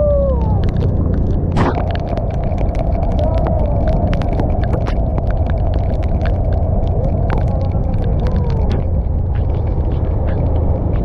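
Motorcycle ride heard on a GoPro: a loud, steady low rumble of wind and engine, with scattered sharp ticks throughout.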